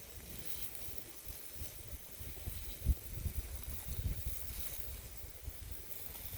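Wind buffeting the microphone in uneven low gusts, over a steady outdoor hiss.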